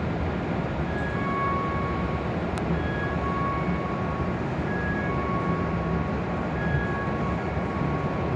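Repeating electronic door-opening chime, a short three-tone figure sounding about every two seconds, over steady noise from the stopped E7 series shinkansen and the station platform.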